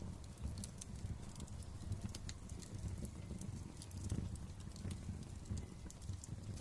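Wood fire crackling steadily in a fireplace: a low rumble of flame under frequent irregular sharp pops and snaps.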